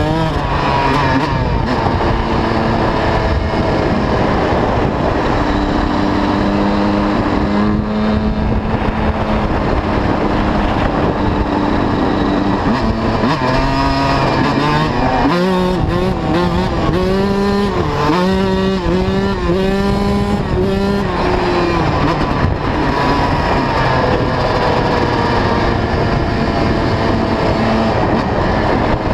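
125 cc two-stroke motocross bike engine being ridden hard, revving up and down with the throttle. About halfway through, the pitch rises and drops in quick succession for several seconds.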